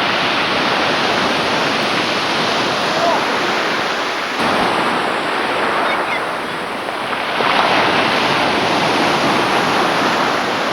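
Sea surf washing steadily at the shore, swelling about four and a half seconds in and again near seven and a half seconds.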